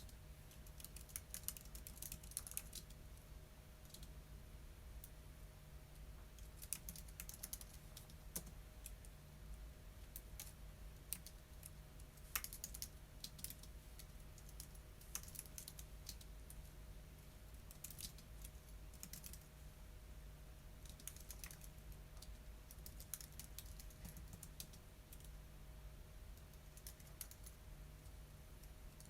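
Computer keyboard typing in short bursts of rapid keystrokes with pauses between them, over a faint steady electrical hum.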